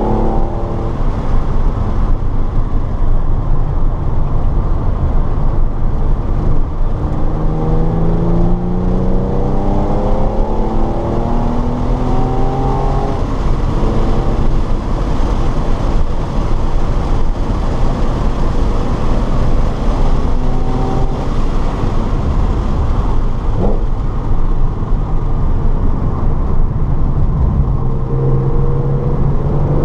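Car engine accelerating hard on a race track, its pitch climbing and then dropping at gear changes, over heavy steady road and wind noise. In the middle the engine runs more evenly, as if off the throttle or holding speed, before it pulls up through the revs again near the end.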